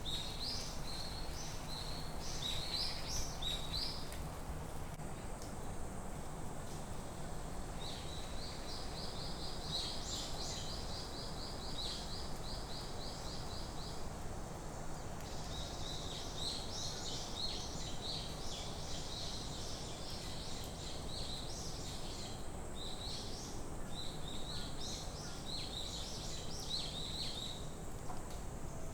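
Small songbirds singing in a forest: short high chirping phrases again and again, and about a third of the way in a long run of quickly repeated notes lasting several seconds. A steady low background noise sits under the song.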